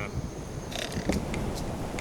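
A few short, sharp clicks scattered over a steady low wind-like rumble.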